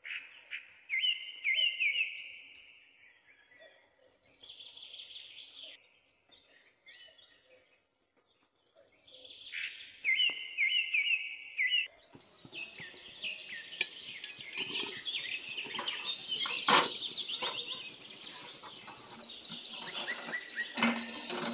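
Small birds chirping in repeated quick phrases with short pauses. About halfway through, the sound turns louder and denser: busy chirping over a crackling hiss.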